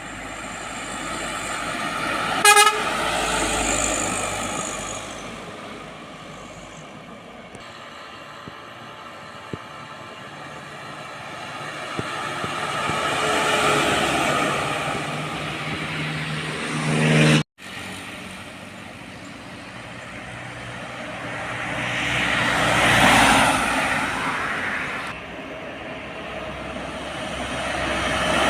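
Heavy trucks passing one after another on a highway, their engine and tyre noise swelling and fading several times. A short loud horn toot sounds about two and a half seconds in.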